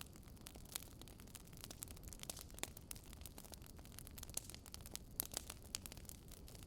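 Wood fire in a fireplace crackling: irregular sharp pops and snaps from the burning logs over a low, faint rumble of the flames.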